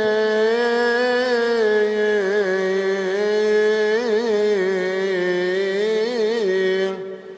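A solo male voice chanting Coptic liturgy, holding one long melismatic vowel on a steady pitch with small ornamental turns a few times, dying away near the end.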